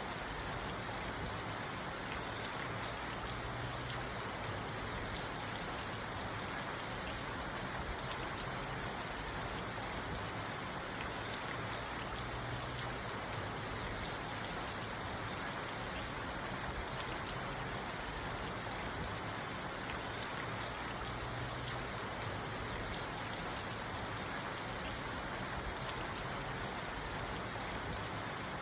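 Steady rain falling on a car, heard from inside the parked car.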